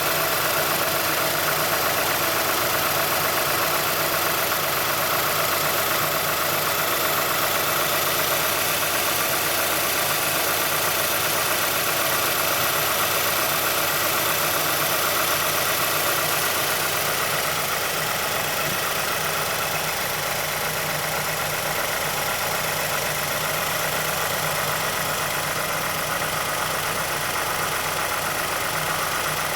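Mazdaspeed6's turbocharged 2.3 L DISI four-cylinder idling, with a steady clicking from inside the engine. The owner takes it for the fault covered by Mazda's SSP-87: a worn VVT actuator or a stretched timing chain.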